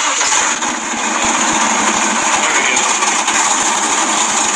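A GM LS1 V8 engine swapped into a 1954 Chevy, just started and running steadily. Its sound swells a little over the first second, then holds even.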